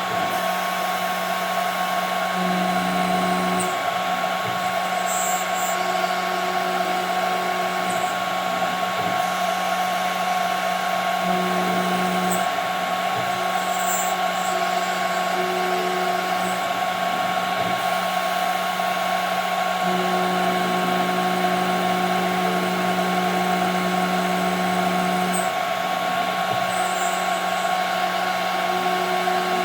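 CNC machine cutting plexiglass: the spindle runs with a steady high whine and hiss, while the axis motors hum in a lower tone that comes and goes as the machine moves between passes, strongest for about five seconds past the middle.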